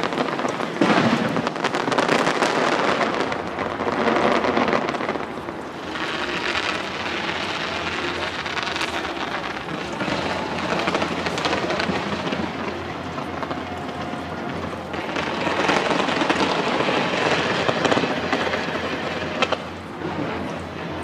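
Fireworks fired from the sides of a skyscraper: a dense, continuous barrage of bangs and crackling. It swells and eases in waves.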